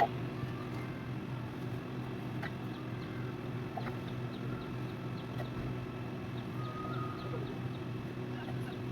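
A steady low mechanical hum with an even pitch, with faint short high chirps and a few soft ticks scattered over it.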